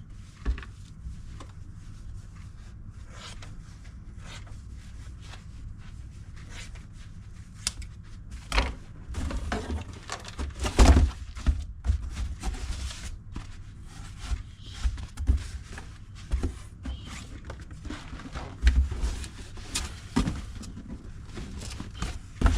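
Packing and handling noises: irregular knocks, thumps and soft rustles as items and packing filler are moved about and put into a box, the loudest thump about eleven seconds in.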